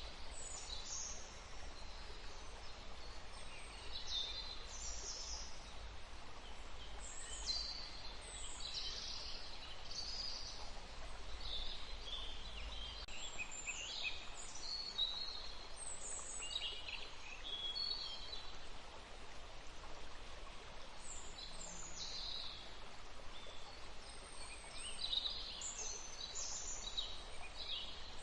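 Forest birds singing, many short chirps and falling notes, over the steady rush of a stream.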